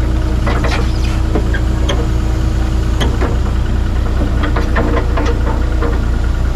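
Excavator's diesel engine idling steadily, with scattered short metallic clicks and knocks over it.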